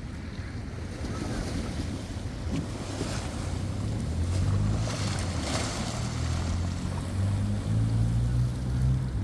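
A low, steady motor hum over a rush of wind and water noise, growing louder from about four seconds in.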